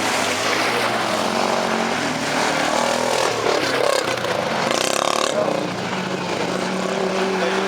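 4x4 off-road vehicle engine running under load, its pitch shifting as the throttle changes, with a brief rush of noise about five seconds in.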